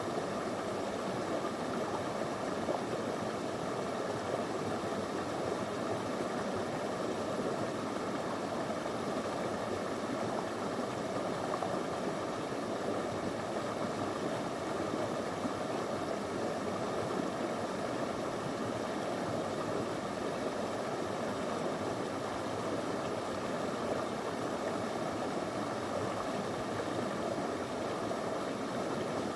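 Small river flowing over stones: a steady rushing babble of water.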